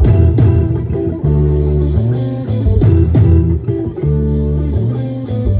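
Live band music without vocals: electric guitar and bass guitar over a steady drum beat, the bass moving to a new note about every second.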